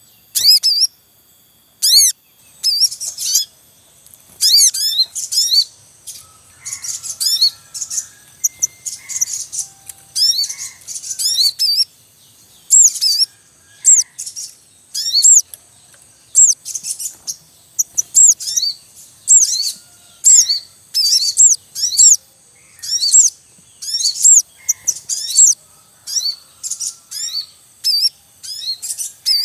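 A family of sogon birds at the nest: a male calls in rapid bursts of high-pitched "cuit cuit" chirps, repeating every second or so, with fainter chick calls mixed in.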